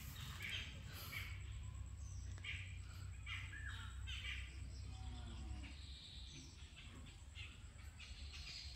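Birds calling in a run of short, repeated calls, one or two a second, over a faint low rumble.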